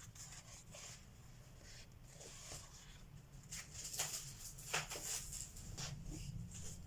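Colored pencil scratching across paper in short, repeated strokes, with a few sharper, louder strokes about four and five seconds in.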